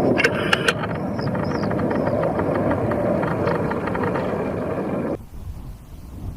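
Loud, steady aircraft engine noise that cuts off suddenly about five seconds in, giving way to a quieter low rumble.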